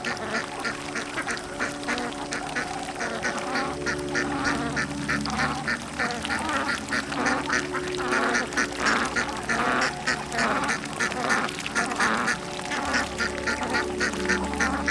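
Ducks quacking in a rapid, continuous series of short quacks, loudest around the middle.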